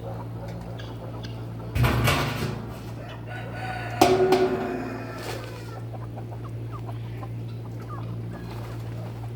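Chickens calling, with loud calls about two and four seconds in, over a steady low hum.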